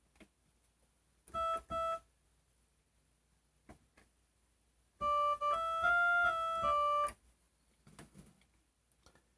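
Electronic keyboard with an organ-like sound: two short notes, then a few seconds later a quick run of held notes that climbs and comes back down.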